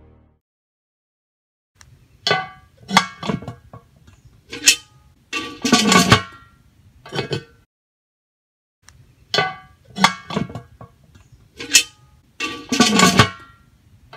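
A series of clinks and knocks, several with a short ringing tone, in an irregular sequence about five seconds long that is then played again.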